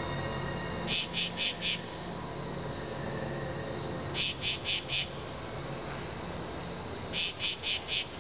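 Cricket chirping: three chirps about three seconds apart, each a quick run of four high pulses, over a steady low hum.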